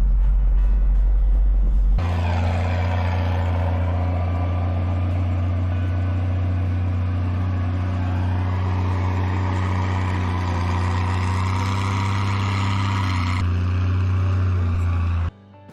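Heavy diesel vehicle engine running steadily under way, a constant low drone. The sound changes abruptly about two seconds in and cuts off just before the end.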